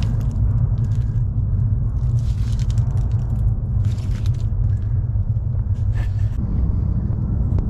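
Steady low rumble with a few short crunching noises over it.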